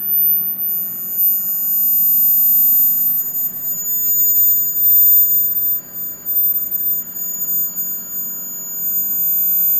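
Klipsch ProMedia 2.1 subwoofer giving off a steady, very high-pitched electronic whine. A second, lower steady tone joins it under a second in, over a faint low hum. The whine is a sign that something is wrong with the unit.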